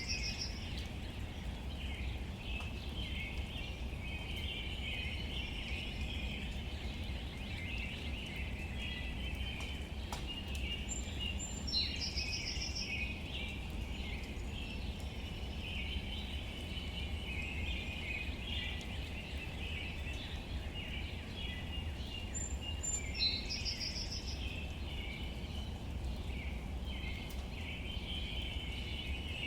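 Outdoor nature ambience: a continuous high chirping chorus of birds and insects over a low steady rumble. A short, high bird call comes twice, about eleven seconds apart.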